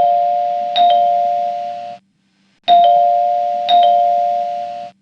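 Electronic two-note ding-dong chime sounding twice, about two and a half seconds apart, each ring stopping abruptly.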